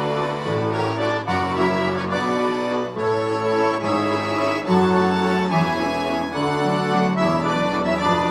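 An orchestra of bayans (Russian button accordions) playing in concert: full held chords over a bass line that steps to a new note about every second.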